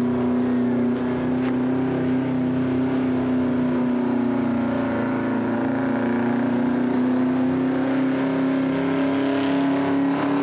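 Truck engine held at high revs under load, a steady drone whose pitch creeps slightly higher over the second half.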